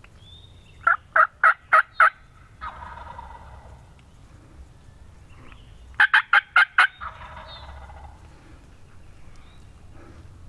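Two loud series of about five sharp turkey yelps, one near the start and one about six seconds in. Each series is answered at once by a longer, rattling gobble from a wild turkey tom.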